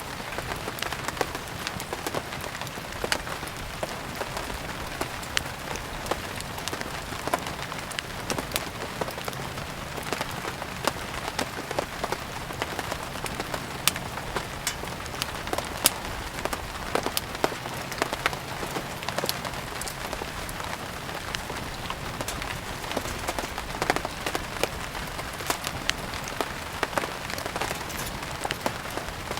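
Steady rain mixed with a wood fire burning: an even hiss of rain with frequent sharp pops and crackles scattered through it.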